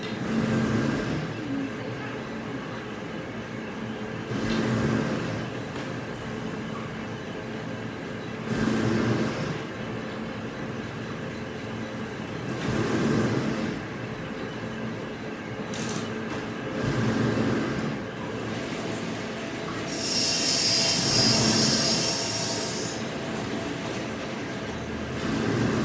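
Industrial plywood-mill machinery running over a steady hum, with a louder mechanical surge about every four seconds, like a repeating work cycle. A longer hiss comes about twenty seconds in.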